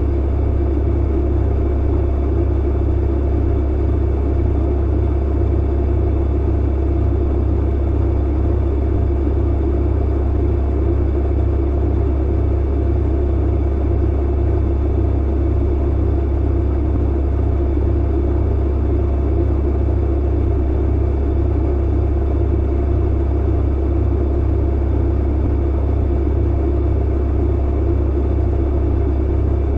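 Clothes dryer running: a steady, even low hum and rumble of the motor and tumbling drum.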